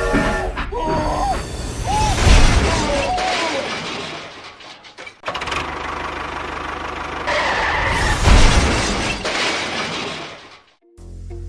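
Small motors of model construction machines running, with stones and gravel crunching and clattering under them; the sound breaks off abruptly twice.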